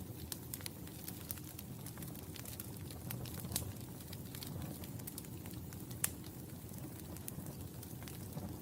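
Wood fire burning in a fireplace: a steady low roar of flames with irregular sharp crackles and pops, a louder pop about 3.5 s in and another about 6 s in.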